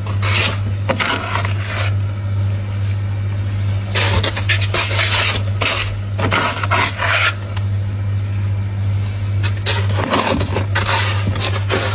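Crunchy frost being scraped and crushed in three bouts of rough crackling, each lasting one to three seconds, over a steady low hum.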